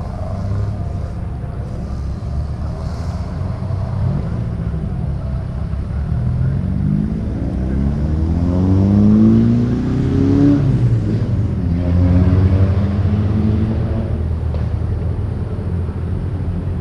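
Car engines leaving a meet: a steady low rumble of running engines, with one car accelerating, its engine note climbing for a few seconds and then dropping sharply. It climbs again briefly before easing off.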